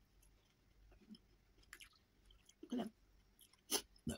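A person chewing a spoonful of soft food with faint, wet mouth sounds. A brief hum comes about two-thirds of the way in, and a couple of sharp clicks come near the end.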